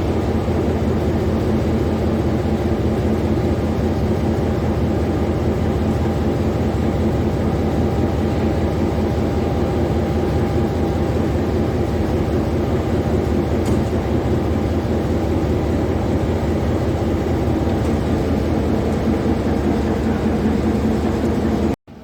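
Class M6 diesel-electric locomotive's engine running steadily, heard close up. The sound cuts off suddenly just before the end.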